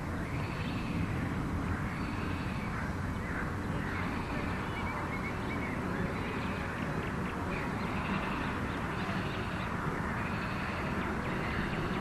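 A bird calling over and over, a rising-and-falling call roughly once a second, over a steady low rumble.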